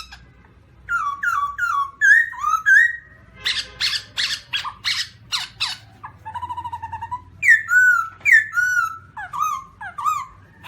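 Black-throated laughingthrush calling: a varied run of loud whistled notes, many sliding up or down in pitch. A stretch of harsh, rapidly repeated notes comes in the middle, then a lower wavering note is held for about a second, followed by more falling whistles.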